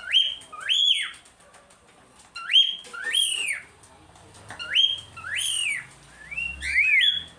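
Cockatiel calling in loud whistled two-note phrases, each note rising sharply and then sliding down, repeated four times with short pauses between.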